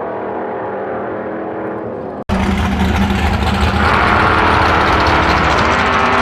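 V8 drag car engine, first a muffled steady engine note. Just over two seconds in it cuts abruptly to a much louder, fuller engine sound, which climbs higher in pitch and gets slightly louder from about four seconds in.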